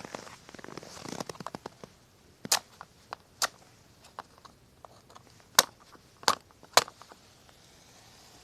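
Wood campfire crackling: a flurry of small crackles in the first couple of seconds, then about five loud, sharp pops from the burning wood.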